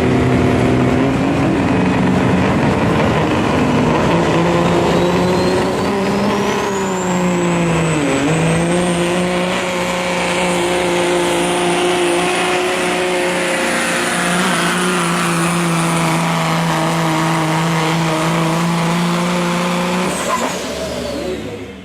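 Modified semi truck's diesel engine running flat out under load as it pulls the sled, the engine note sagging briefly then recovering. A high whistle climbs over a couple of seconds, holds steady, and falls away near the end as the pull ends.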